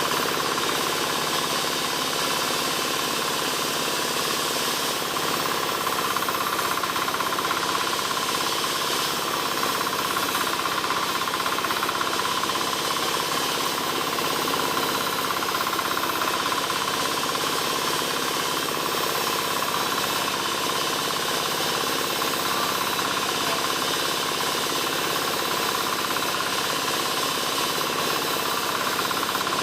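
Wood-sawing machine running steadily as it saws albasia timber, a constant mechanical drone with a steady high whine and no pauses.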